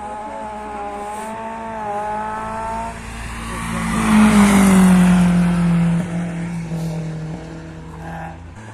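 Rally car driving past at speed: its engine note builds to a peak about four to five seconds in, then drops in pitch as the car moves away.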